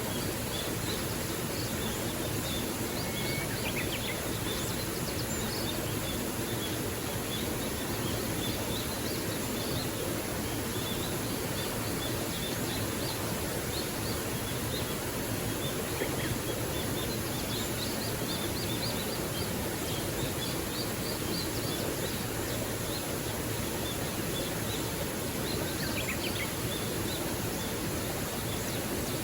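Small waterfall pouring steadily, with birds chirping faintly now and then above the rush of water.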